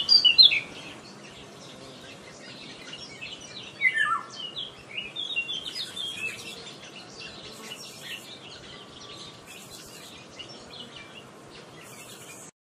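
Birds chirping and calling, busiest at the start and again around four to seven seconds, with one call falling in pitch about four seconds in, over a steady background hiss. The sound cuts off near the end.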